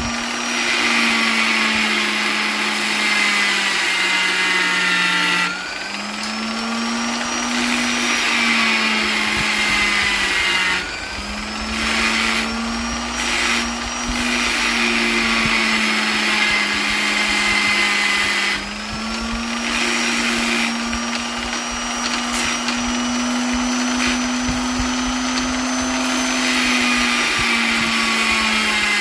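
Electric polisher motor running steadily with a high whine. Its pitch dips briefly and recovers several times, at about 5, 11 and 19 seconds in.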